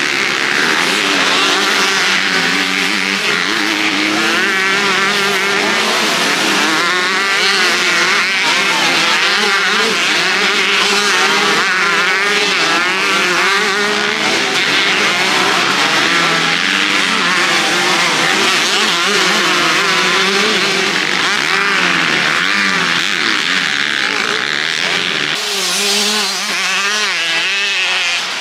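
Several motocross bikes of the 125/250 class racing together, their engines revving up and down over each other as riders accelerate and shift.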